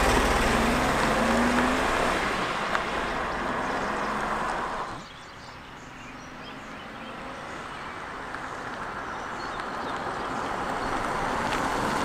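Datsun 280Z's straight-six engine as the car pulls away and accelerates, its pitch rising while it fades into the distance. About five seconds in the sound drops suddenly to a distant engine, which grows steadily louder as the car drives back.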